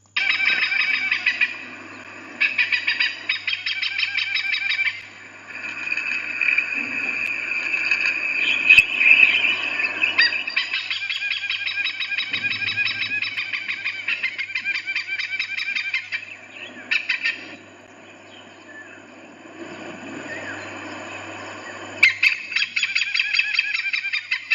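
Hornbill calling: bouts of rapid, repeated notes with short breaks between them.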